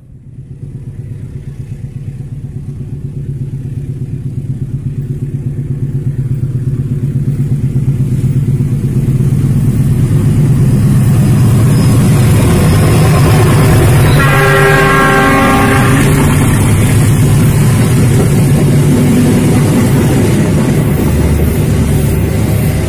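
CC 206 diesel-electric locomotive approaching and passing at speed with its passenger coaches, its engine drone growing steadily louder over the first ten seconds. The horn sounds once for about two seconds as the locomotive comes alongside, and the coaches then rumble past on the rails.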